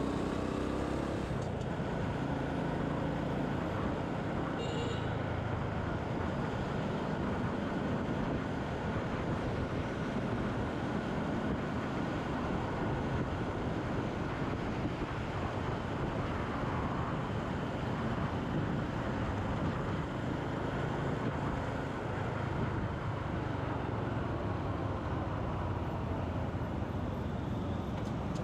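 Steady road noise from a motorcycle riding through city traffic: engine, wind and surrounding vehicles mixed together. A short high beep sounds about five seconds in.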